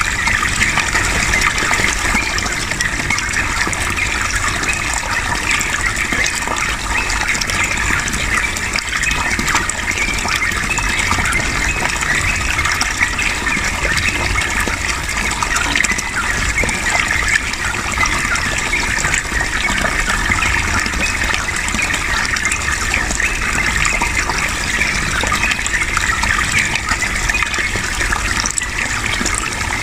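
Steady rush of flowing water, even and unbroken, like a small stream or running fountain.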